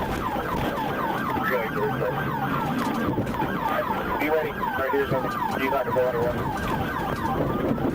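Several emergency-vehicle sirens sounding at once: one on a fast yelp, several sweeps a second, and others on a slower rising-and-falling wail, over a steady low rumble.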